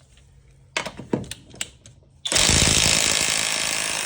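A few clicks and knocks, then, a bit over two seconds in, a Kobalt compact 1/2-inch cordless impact wrench in speed 3 starts hammering loudly with a fast rattle, working a lug nut torqued to 120 foot-pounds.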